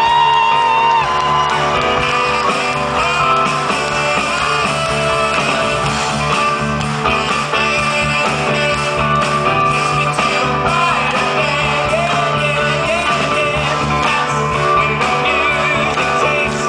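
Live stage band playing a steady, upbeat number with singing voices over it.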